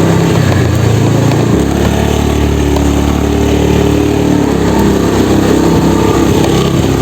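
Motorcycle engine running as the bike is ridden along, its pitch shifting a little about a second and a half in and again past the middle as the throttle changes.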